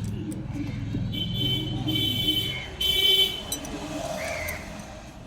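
A road vehicle's engine running and fading away, with a horn sounding three short blasts between about one and three and a half seconds in.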